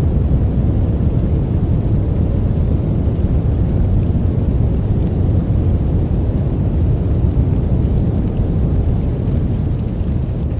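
Steady sleep white-noise track, mixed dark: an even, deep rumble with little high hiss.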